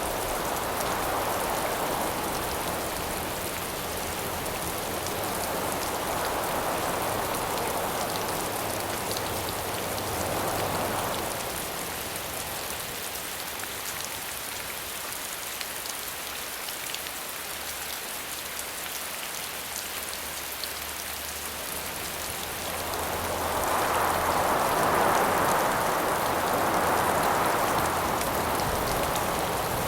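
Steady rain falling with fine scattered drop ticks, under wind that swells in gusts: strong through roughly the first third, dying down in the middle, then rising again to its loudest near the end.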